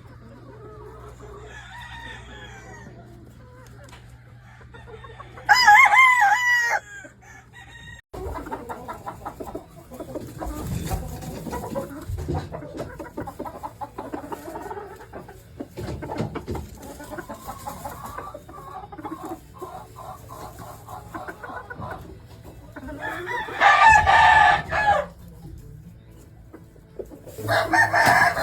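Gamefowl roosters crowing: three long crows, one about a fifth of the way in and two close together near the end, with chickens clucking between them.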